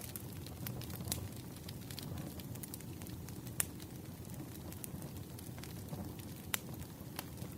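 Wood fire burning in a fireplace: a steady low rumble of flames with scattered sharp crackles and pops, a few of them louder.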